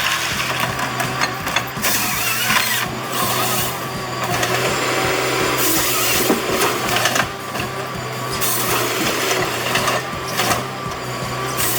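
A machine running with a steady low hum and mechanical clatter, with bursts of high hiss that come and go every few seconds.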